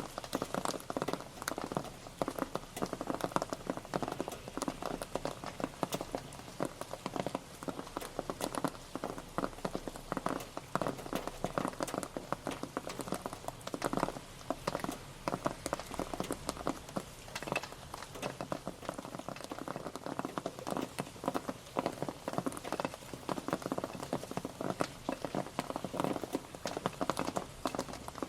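Rain pattering steadily on a surface, dense irregular drops over a continuous wash.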